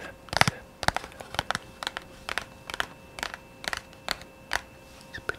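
ASMR tapping: evenly spaced crisp taps at about two a second, each a short sharp click.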